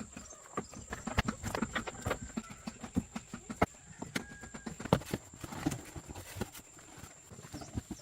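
Irregular light knocks and clicks, several a second, the loudest about five seconds in.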